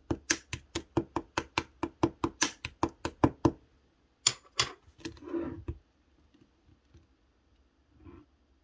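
Fingernails tapping quickly on a plastic slime container, about four to five taps a second, then two sharper clicks and a brief rustle.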